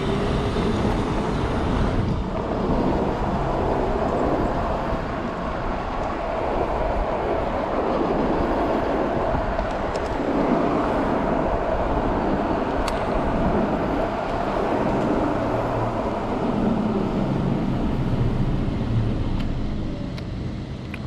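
Steady road and traffic noise heard from an electric bike riding through city streets, with a faint wavering hum over it.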